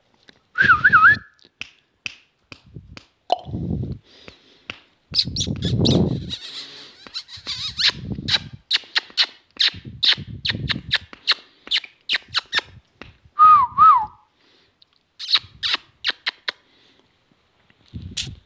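Parrot giving two short warbling whistles, one about a second in and one near the middle, among many quick sharp clicks and a few short low sounds.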